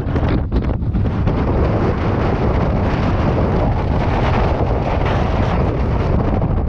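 Strong Antarctic blizzard wind buffeting the microphone: a loud, unbroken rush of wind noise with a heavy low rumble.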